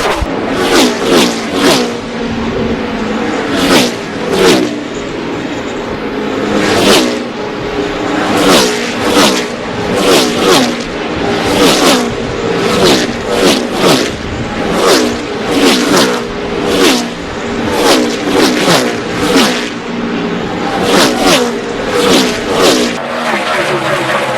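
NASCAR Cup stock cars' V8 engines at full throttle passing close by in a long stream, each pass a short loud burst whose pitch drops sharply as the car goes by.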